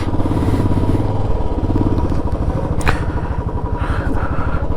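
Yamaha R15 V3's single-cylinder engine running steadily with an even low beat. One sharp click about three seconds in.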